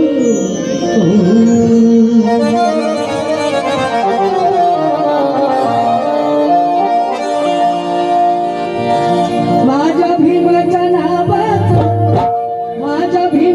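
Music from a Marathi Bhim geet (an Ambedkarite devotional folk song), in an instrumental stretch led by a reed instrument playing sustained notes and a winding melody.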